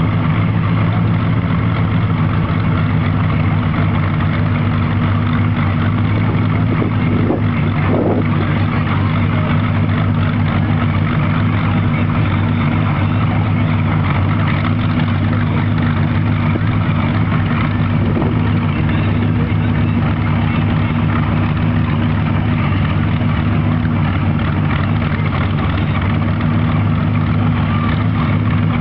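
Modified tractor-pull tractor's engine running loud and steady, holding one engine speed without revving up or down.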